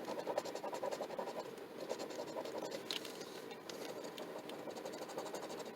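A coin or scraper scratching the latex coating off a paper lottery scratch-off ticket, a continuous quiet rasping made of many small strokes.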